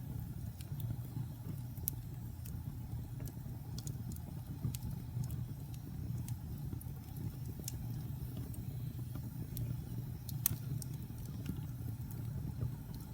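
Wood fire burning in a fireplace: a steady low rumble of flames, with irregular sharp crackles and pops from the burning logs, one loud pop about ten seconds in.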